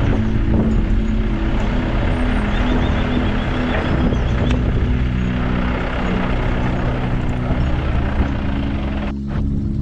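A car driving along a road: steady engine hum under road and tyre noise, with the higher noise dropping away abruptly about nine seconds in.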